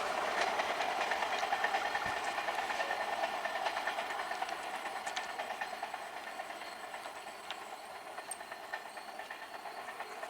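Indian Railways express train running on the rails, a steady rumble and hiss of wheels on track that slowly fades as it moves away, with scattered light clicks.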